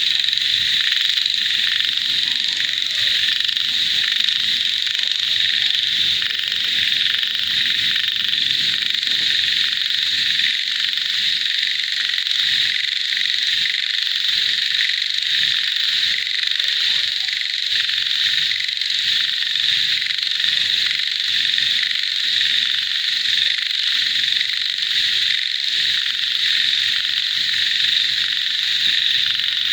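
Dense chorus of frogs calling all together, a steady high-pitched trilling with scattered lower calls beneath it.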